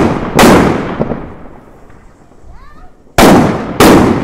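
Loud firecracker bangs from a homemade firecracker mat. One bang comes about half a second in and two more near the end, about half a second apart, each fading out in a long echoing tail.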